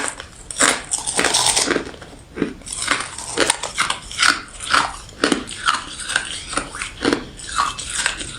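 Ice being bitten and chewed close to the microphone: a steady run of crisp crunches, about two to three a second.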